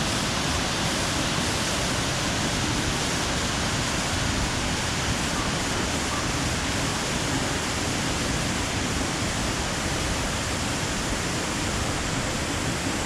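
Waterfall crashing down close by: a loud, steady rush of falling water.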